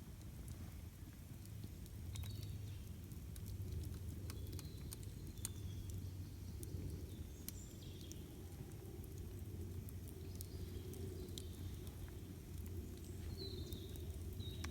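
Campfire crackling with scattered sharp pops and ticks over a low steady rumble, while a few birds give short high chirps.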